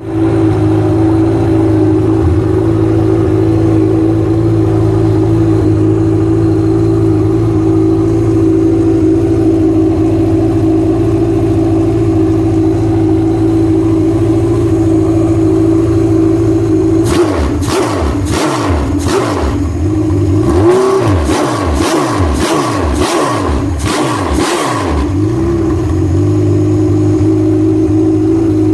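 Formula 2500 hydroplane racing engine on its first run, idling steadily, then blipped through a quick series of revs for about eight seconds before settling back to idle.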